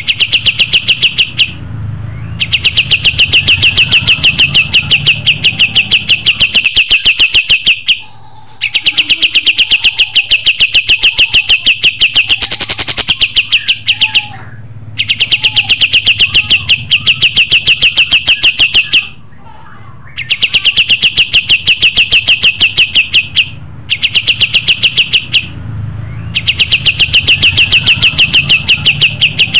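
Kapas tembak songbird singing vigorously: long runs of fast, evenly repeated high chirps, broken by short pauses every few seconds.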